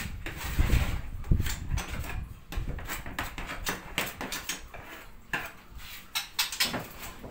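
Handling and scraping a bird cage's droppings tray during cleaning: irregular knocks, clicks and rattles, with scraping in the first second or so.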